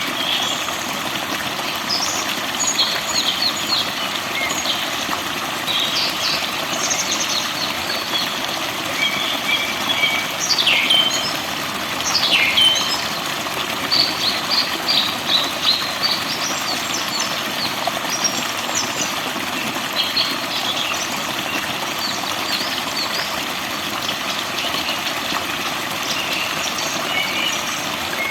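Many forest birds chirping and singing in short, quick phrases over a steady rushing hiss.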